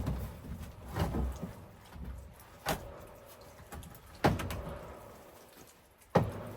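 Five sharp knocks with a dull low thump, spaced irregularly about one to two seconds apart.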